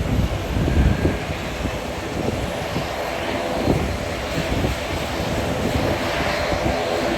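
Turboprop airliner's engines running with a steady droning tone, building slightly toward the end, while strong wind buffets the phone's microphone in gusty low rumbles.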